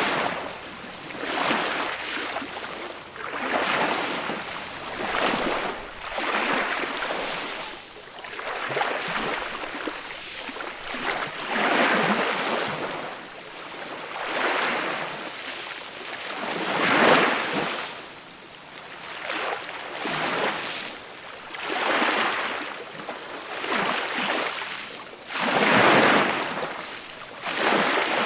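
Small, gentle sea waves washing onto a beach, each one swelling and hissing away, arriving every two to three seconds.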